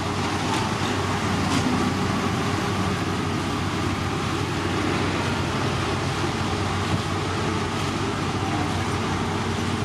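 Heavy road-construction machinery running steadily: a constant engine hum under an even wash of mechanical noise.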